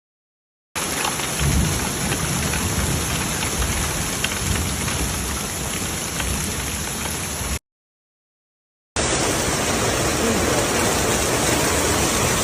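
A hailstorm with heavy rain: a dense, steady hiss with scattered sharp ticks of hailstones striking. It drops out to silence briefly near the start and again for about a second past the middle.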